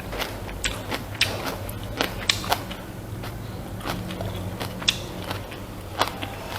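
Close-miked eating sounds: chewing rice and pork, with irregular wet mouth clicks and small crackles several times a second, over a steady low hum.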